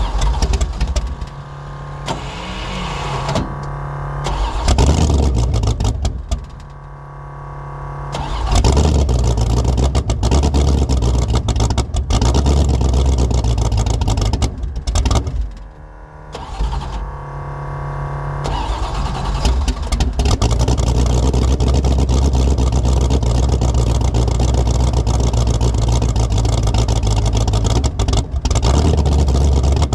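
1984 Fox Body Mustang drag car's carbureted engine on a cold start without a choke, running unevenly with throttle blips and two sharp drops in level, then settling into a steady fast idle for about the last ten seconds. The owner says it fights cold starts because it has no choke and an oversized 878 CFM carburetor.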